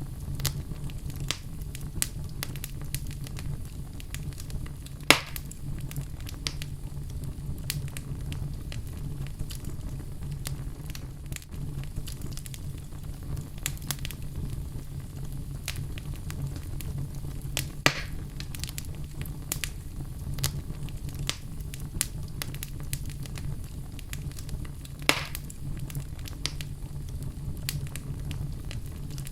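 Fire burning in a fireplace, crackling steadily: a low continuous rumble of flame under many small ticks and snaps, with three louder pops about five, eighteen and twenty-five seconds in.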